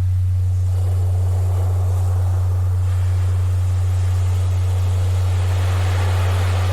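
A steady low tone, a Rife-frequency tone and the loudest thing throughout, played over recorded ocean surf. The waves swell and wash, with one building about a second in and another near the end.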